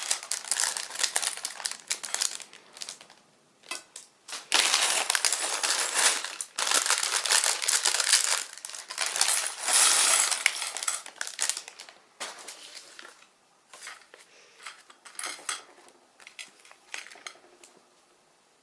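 Small plastic building-block pieces being handled and sorted by hand, a rustling, clattering rummage in irregular bursts that thins out to scattered clicks about twelve seconds in.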